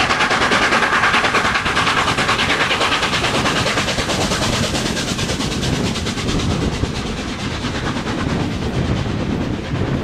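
Peppercorn A1 steam locomotive 60163 Tornado working hard with its train, its three-cylinder exhaust beating rapidly over the running of the train on the rails, slowly fading as it draws away.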